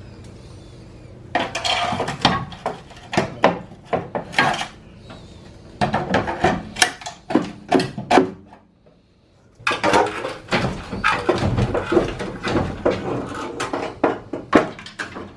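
Repeated metal clanks and knocks: the old exhaust and catalytic converter section being hammered and banged loose from under a Nissan 350Z, with a short pause partway through.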